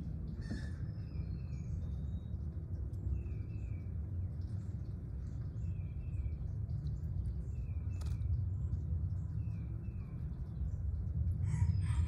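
Birds calling: a small bird repeats a quick double chirp every second or two over a steady low rumble, with a louder, harsher call near the end.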